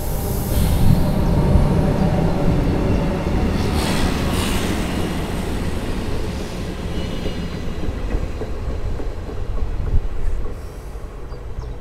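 Train wheels rumbling on the rails as two adapter wagons and a double-deck passenger coach, hauled by NS 1700-class electric locomotive 1745, roll past close by. The rumble fades as the train moves away near the end.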